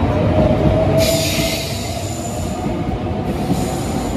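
A train running on the rails close by: a steady low rumble of wheels and running gear, with a high screeching hiss that comes in about a second in and comes and goes.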